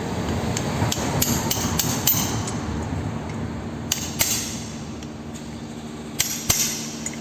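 Light hammer taps on metal in irregular clusters, about a dozen strikes, tapping a dented spot on a new CV axle back flush.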